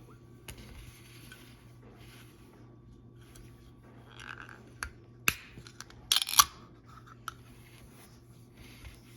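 Snack packaging being handled: light rustling and sharp clicks, then a run of loud crinkles and snaps about five to six and a half seconds in.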